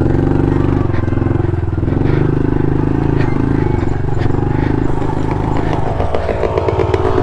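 Honda CRF110 pit bike's small air-cooled single-cylinder four-stroke engine running under load on a rocky trail, with scattered clicks and knocks; the engine note changes to a higher, more pulsing sound about six seconds in.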